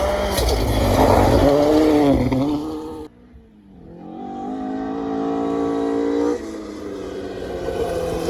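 Rally car engine at high revs, its pitch falling and rising. About three seconds in the sound cuts off abruptly, then another rally car's engine grows louder on a steady high note as it approaches, changing suddenly a little past six seconds.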